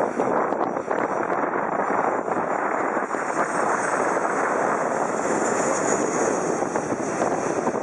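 Jet airliner passing overhead, a loud, steady rushing engine noise with a high whine on top that swells about halfway through and eases off near the end.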